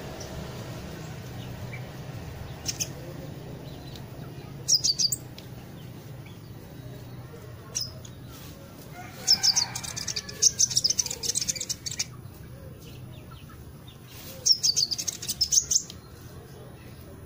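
Small songbird giving bursts of rapid, high chirps: a short call about 3 s in, then longer chattering runs near 5 s, from about 9 to 11.5 s, and from about 14.5 to 16 s, over a steady low hum.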